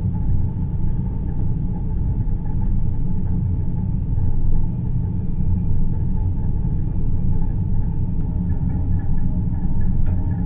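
Deep-space ambience: a steady, deep rumbling drone with a faint hum above it, produced as sleep white noise.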